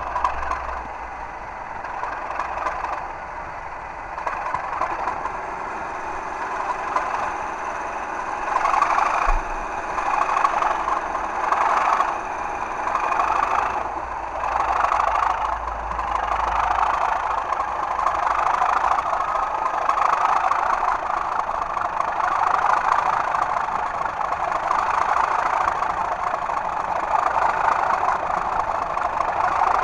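Sound units of two model Class 37 diesel locomotives playing English Electric diesel engine sound through small speakers, thin with little bass. The engine note grows louder and surges unevenly about eight seconds in, then holds steady at the higher level.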